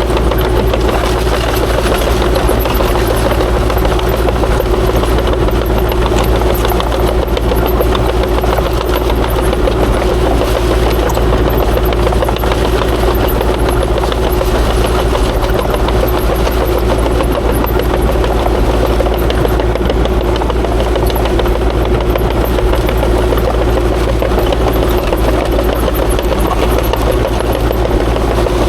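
Kubota KX040-4 mini excavator's diesel engine running steadily at working speed, with a constant tone humming over the low rumble.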